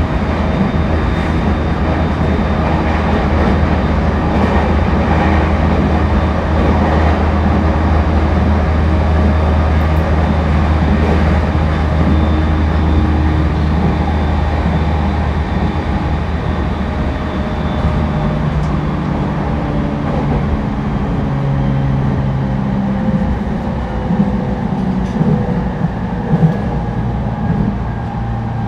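Interior running noise of an E231 series 1000 commuter train at speed: a steady rumble with several humming tones that change pitch in steps from a little past halfway, and a few faint clicks.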